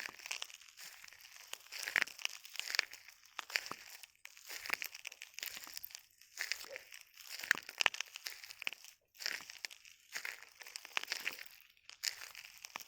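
Footsteps in jandals (flip-flops) crunching over a beach of shells: a run of irregular, crisp crunches.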